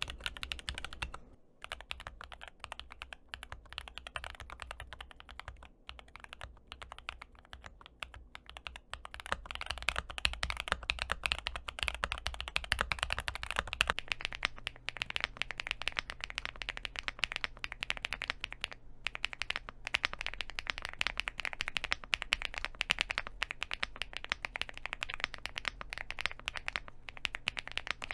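Steady typing on mechanical keyboards: an Epomaker EK68, then from about halfway a Rainy 75, with rapid keystroke clacks and short pauses in the typing.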